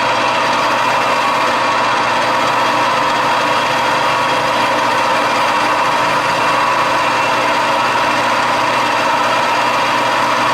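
Metal lathe running at a steady spindle speed, an even motor and gear hum with no change in speed, while Scotch-Brite is worked in the bore of the spinning part.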